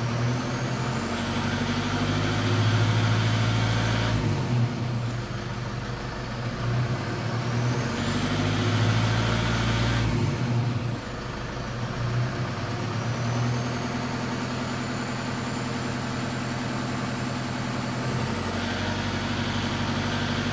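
Toyota 1KD-FTV 3.0-litre four-cylinder turbodiesel revved up twice and let back down, with a high whine rising and falling with the revs, then running at a steady speed. The owner hears a hard, fast rattle around 1400 rpm under acceleration, and rules out the injectors because they are brand new.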